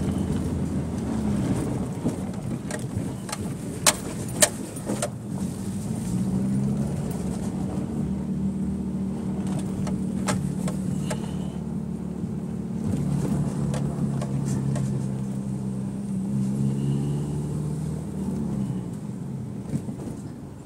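1999 Subaru Outback's 2.5-litre flat-four engine pulling steadily in second gear at low speed on a dirt road, heard inside the cabin, its pitch shifting with the throttle. A few sharp knocks come about four seconds in and again near ten seconds.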